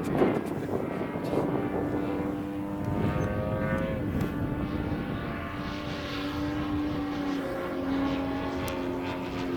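Radio-controlled model airplane's motor and propeller running at a steady buzzing pitch, which shifts slightly about three quarters of the way in. Gusts of wind on the microphone near the start.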